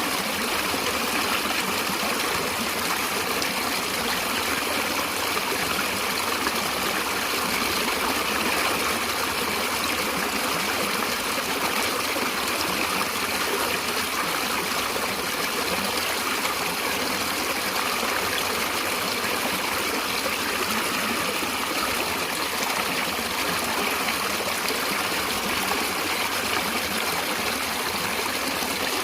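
Natural water flowing steadily, an even, unbroken sound of running water.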